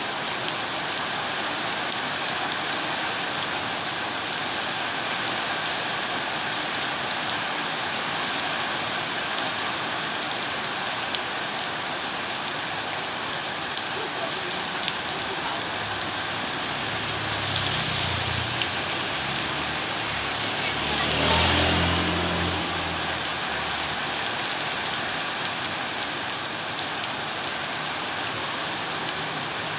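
Steady rain falling on a surface, an even hiss. About two-thirds of the way through, a low rumble swells for several seconds, peaks, and fades back into the rain.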